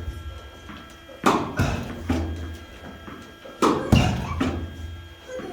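Tennis ball hits during a forehand rally: two pairs of sharp impacts, about a second and about three and a half seconds in, each pair two hits a third of a second apart with a short ring after.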